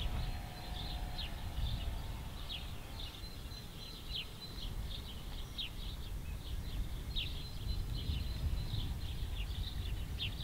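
Small birds chirping, many short high calls that drop quickly in pitch, scattered through over a steady low rumble.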